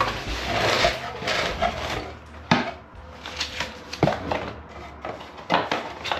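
Deadbolt lock hardware being handled: rustling, then three sharp knocks and clicks about a second and a half apart.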